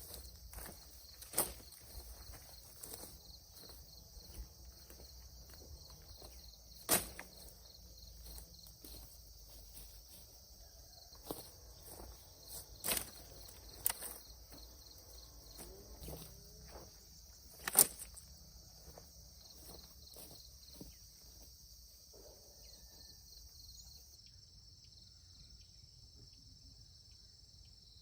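Steady high-pitched chorus of insects, with scattered sharp snaps and knocks. A handful of the snaps stand out as louder, the loudest about two-thirds of the way through.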